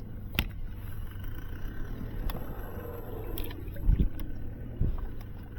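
Steady low rumble of wind and water on the microphone while fishing afloat, broken by three sharp clicks and two dull low thumps.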